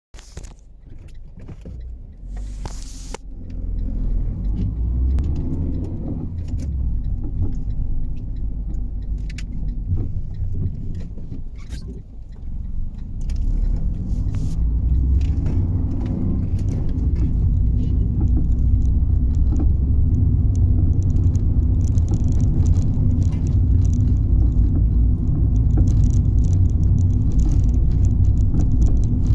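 Fiat 500 on the move, heard from inside: a steady low road-and-engine rumble, louder from about halfway, with repeated short clunks and knocks from under the car. The clunking comes on normal roads, bumps and humps alike, and its cause is unknown to the owner.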